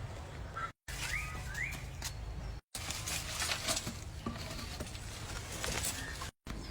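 Outdoor ambience cut together from short clips, with steady low rumble like wind on the microphone. Two short rising bird chirps come about a second in, followed by scattered light ticks and rustles.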